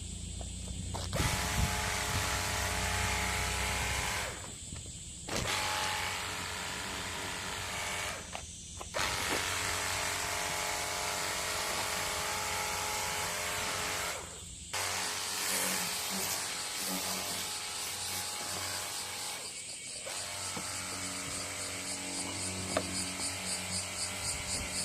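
Small Chinese-made outboard motor running steadily on a catamaran, heard in several short clips joined by abrupt cuts.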